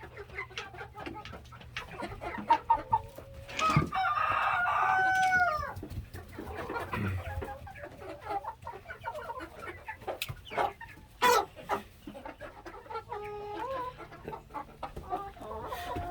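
Chickens clucking, with a rooster crowing once about four seconds in, a call lasting about a second and a half, and a shorter call near the end.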